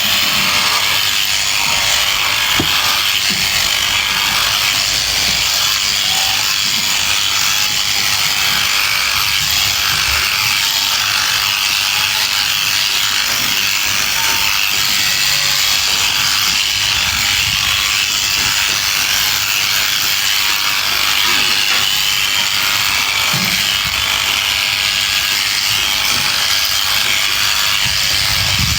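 Electric sheep shears running steadily, clipping through a fleece.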